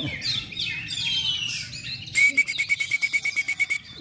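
Oriental magpie-robin (kacer) singing: quick whistled phrases sliding up and down, then about two seconds in a fast, even string of short notes, roughly ten a second, lasting about a second and a half.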